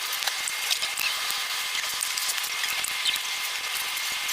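Steady hiss with a faint high whine and scattered light clicks, starting and stopping abruptly, heard while jumper wires are being soldered onto a monitor's LCD panel.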